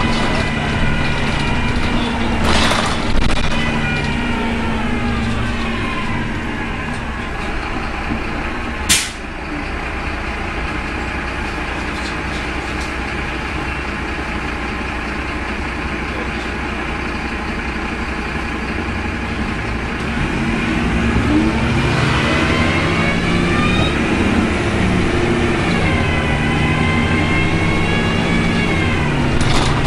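Optare Tempo single-deck bus heard from inside: engine and driveline running under a howling whine that the uploader calls weird and puts down to the engine. The whine falls in pitch as the bus slows, rises about two-thirds of the way through as it pulls away, then falls and rises again near the end. A brief sharp burst of noise comes about nine seconds in.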